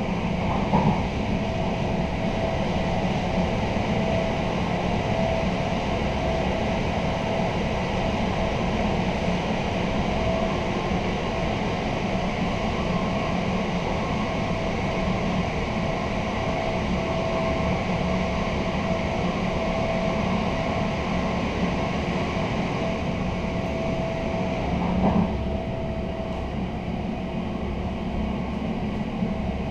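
Passenger coach running at speed on rails, heard from inside the vestibule: a steady rolling rumble with a faint steady whine. There is a knock about a second in and another near 25 s, after which the sound drops a little and turns duller as the windows go from tunnel dark to daylight.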